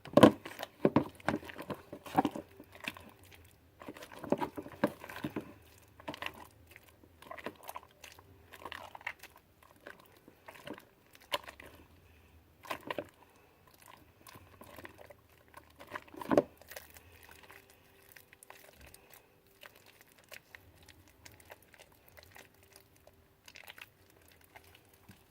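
Homemade glue-and-detergent slime being squeezed and kneaded by hand in a bowl: irregular sticky squelches and clicks, loudest at the very start and once about two-thirds through, getting sparser toward the end.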